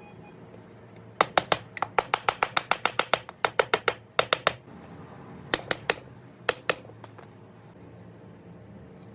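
A rapid run of sharp clicks, about four a second, for roughly three and a half seconds, then a few more clicks in two short groups.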